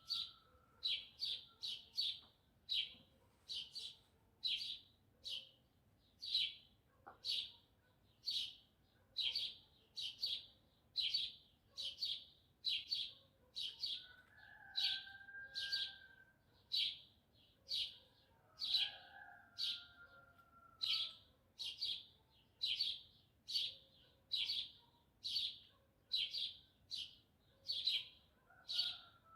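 A small bird chirping over and over, a short high chirp a little more than once a second. A rooster crows faintly twice, each crow lasting about two seconds, about halfway through.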